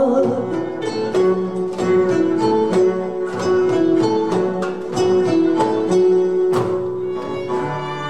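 Instrumental interlude of a Turkish art-music ensemble: plucked strings pick out a melody in quick, even notes over sustained bowed strings.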